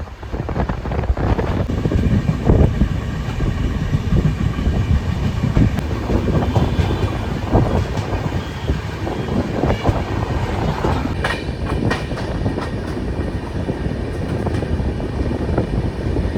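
Express passenger train running along the track: a steady rumble of the coaches with the clickety-clack of the wheels.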